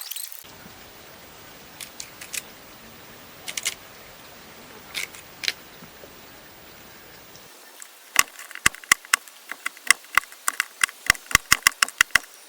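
Chopping on a piece of bamboo used as a cutting board: a few scattered sharp knocks, then from about eight seconds in a quick run of chops, about four a second.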